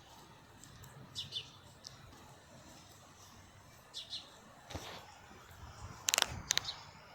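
Two short bird chirps about three seconds apart over a faint outdoor background, followed near the end by a few sharp clicks or knocks, the loudest sounds here.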